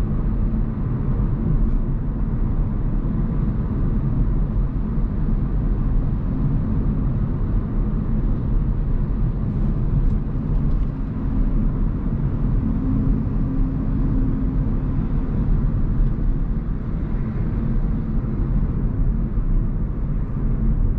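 Hyundai Kona Hybrid driving on the road: a steady low rumble of tyre and road noise.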